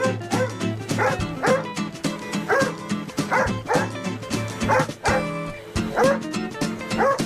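A dog barking and yipping over and over, about two barks a second, at a running vacuum cleaner, over music. The trainer reads such barking as a dog in distress, not play.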